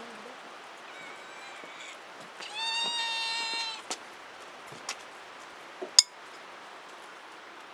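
A domestic cat meows: a faint short call about a second in, then one longer, steady meow near the middle, over a steady hiss of rain. A few sharp clicks follow, the loudest about six seconds in.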